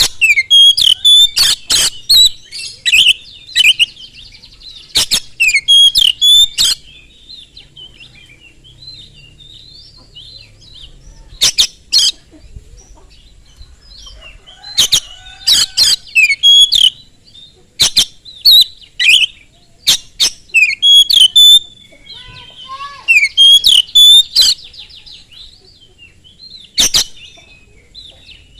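Oriental magpie-robin singing loudly in rapid phrases: sharp clicking notes mixed with quick whistled notes. The phrases come in bursts with pauses of a second or two between them.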